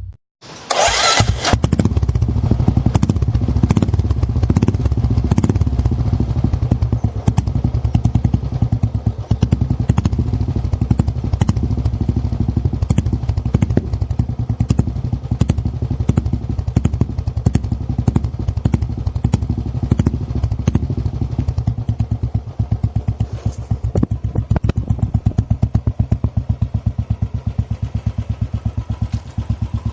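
Royal Enfield single-cylinder motorcycle with a Wild Boar aftermarket exhaust, idling loudly with an even beat of exhaust pulses. It gets somewhat quieter in the last third.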